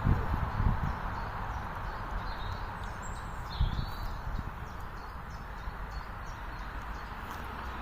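Steady hum of traffic on a nearby main road, with footsteps on a woodland path thudding now and then and a few short bird chirps about three to four seconds in.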